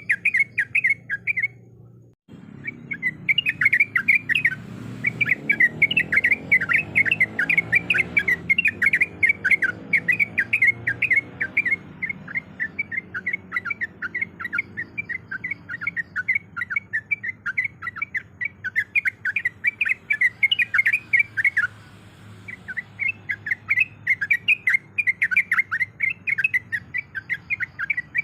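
Yellow-vented bulbul (trucuk) song used as a lure: a fast, continuous stream of chattering chirps with two short breaks, one about two seconds in and one near the end.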